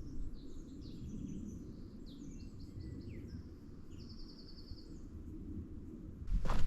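A songbird singing short chirps and trills over a steady low rumble, likely wind on the microphone. Near the end, loud sharp knocks begin.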